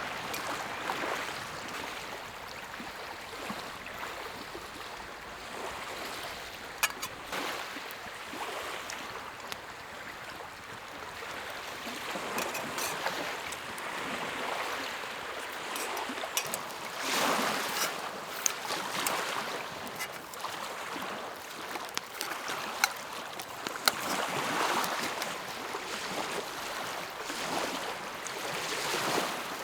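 Small lake waves lapping and washing against the shore, swelling and easing every few seconds, with a few sharp clicks.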